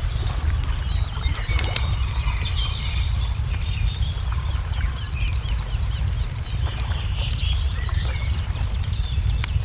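Wood fire crackling, with irregular sharp snaps and pops over a steady low rumble, while small birds chirp and trill with many short calls.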